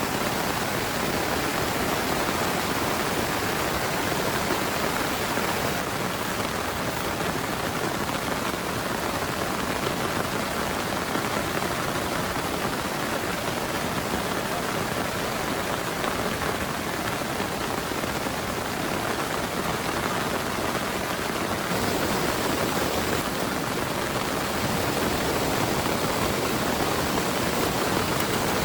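Heavy rain pouring steadily, an even, unbroken rush of falling water.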